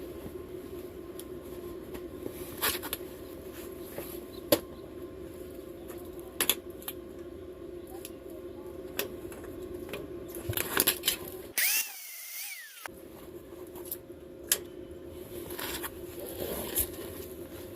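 A small motor runs with a steady hum, with scattered sharp metal clicks and knocks over it. The hum drops out for about a second, roughly twelve seconds in.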